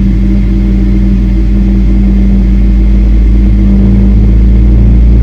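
GE90-115B turbofan of a Boeing 777-300ER spooling up during engine start, heard inside the cabin: a loud, steady low rumble with a hum, slowly growing louder.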